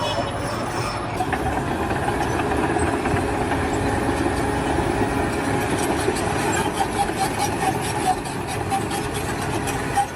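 An engine running steadily, with a constant rattle of small rapid clicks over it.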